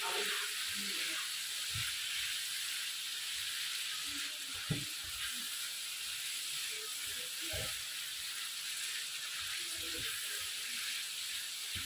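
Liver frying in masala in a wide pan, with a steady sizzle, while a slotted spatula stirs it, knocking and scraping against the pan every second or few; the sharpest knock comes a little before five seconds in.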